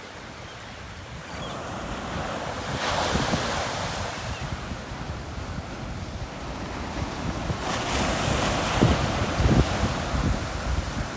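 Surf breaking on a beach: two waves crash, one about three seconds in and a louder one near eight seconds, each a swell of rushing noise. Wind buffets the microphone with low thumps during the second wave.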